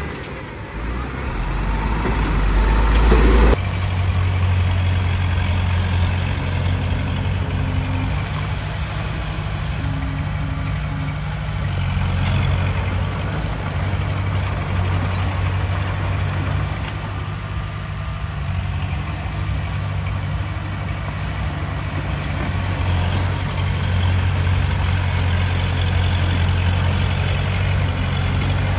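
Heavy diesel earthmoving machinery running steadily. A deep rumble builds over the first few seconds and cuts off abruptly about three and a half seconds in, and a steady engine drone carries on after it.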